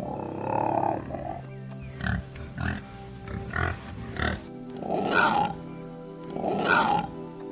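A pig grunting and squealing in a string of short calls, the two loudest near the end, over background music.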